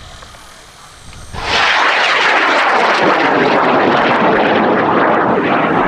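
High-power rocket motor burning on lift-off: the motor's loud, steady, crackling roar comes in suddenly about a second and a half in and keeps going.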